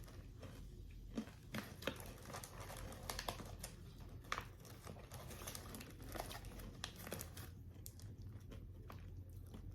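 Freeze-dried Skittles being chewed: scattered soft, crisp crunches and crackles, irregular and close to the mouth.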